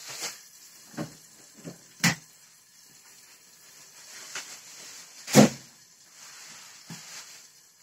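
Eggs and sausages frying in a covered frying pan, a steady soft sizzle, with a few short knocks, the loudest about two seconds and five seconds in.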